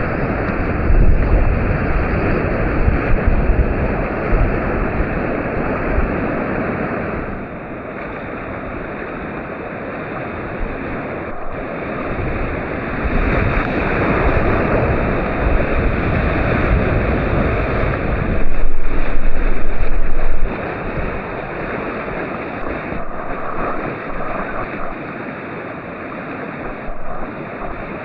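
Whitewater rushing through class III rapids, with wind buffeting the microphone as a low rumble in the first quarter. About two-thirds of the way in, a much louder rush lasts about two seconds and then cuts off suddenly.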